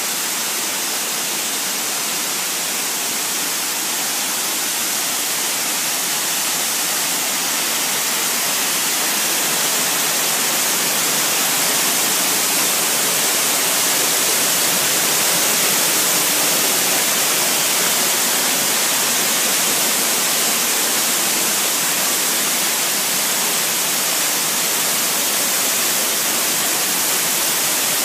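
Waterfall pouring: a loud, steady hiss of falling water that hardly changes.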